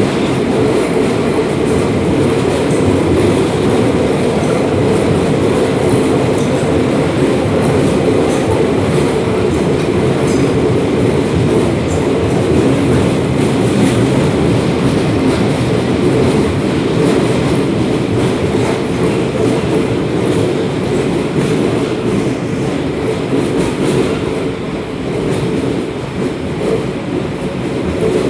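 Class 472 electric S-Bahn train running, heard from inside the car: a steady rumble of wheels and running gear on the track that dips slightly near the end.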